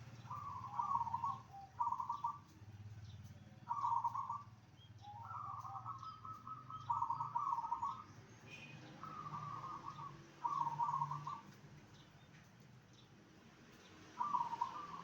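Zebra dove (perkutut) cooing: short phrases of rapid coo notes, repeated about seven times with pauses between them, over a faint steady low hum.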